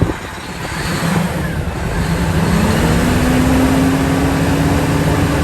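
Hino 700 series truck's E13C six-cylinder diesel engine revved from idle. The note rises about two seconds in and is held high, at about 2,000 rpm, running smoothly.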